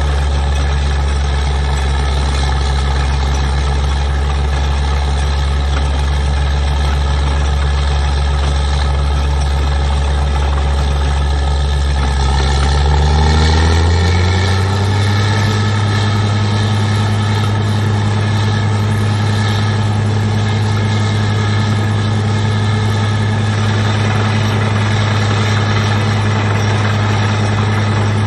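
Truck-mounted water well drilling rig's engine running steadily, then speeding up over a couple of seconds about halfway through and holding at the higher speed.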